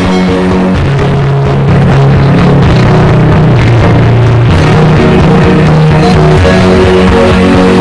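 Very loud music with heavy held bass notes blasting from a truck-mounted carnival 'horeg' sound system; it gets louder about two seconds in.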